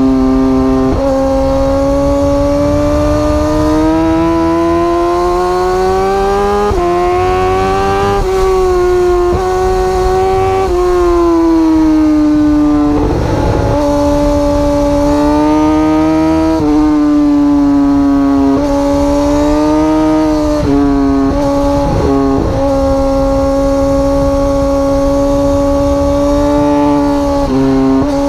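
Superbike engine running at high revs, heard onboard. Its pitch climbs slowly and drops sharply a few times in the first half, as with gear changes, then holds a steady high note.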